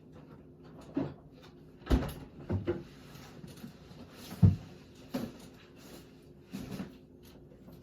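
Short handling knocks, taps and rustles, about six in all, the loudest about four and a half seconds in, as a sauce container is handled and sauce is put on a fried-chicken sandwich.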